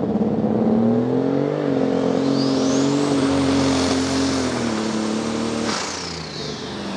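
Super stock pulling tractor's diesel engine running hard on a pull, its pitch rising under throttle about a second and a half in and holding, with a high whine climbing to a steady shriek. Near the end the engine drops off and the whine winds down, as the tractor falls flat and cannot keep its wheels turning.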